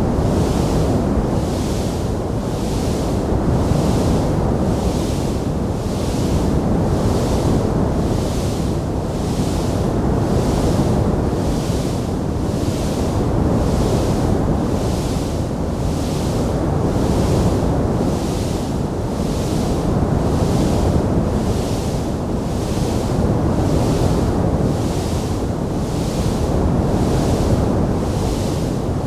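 Wood fire burning in a stone fireplace: a steady, low rumbling noise with no separate crackles standing out, and a faint hiss above it that swells and fades about once a second.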